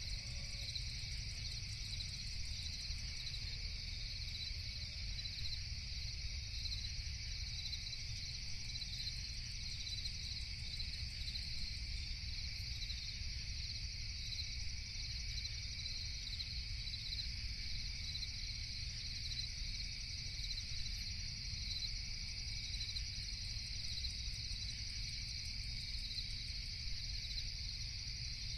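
Steady night chorus of crickets, a continuous high trilling, over a low, even background rumble.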